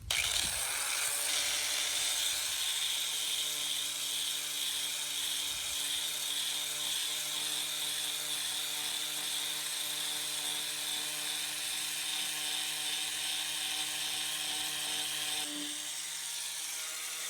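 Electric power sander starting up and running steadily against fiberglass, a motor whine under a gritty abrasive hiss. Near the end its pitch shifts and it gets a little quieter.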